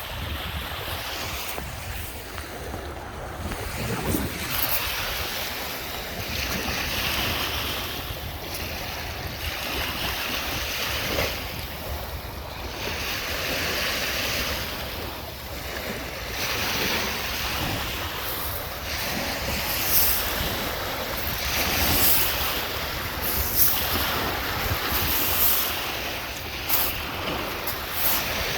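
Lake Michigan waves washing onto the shore, the noise swelling and falling every few seconds, with wind rumbling on the microphone.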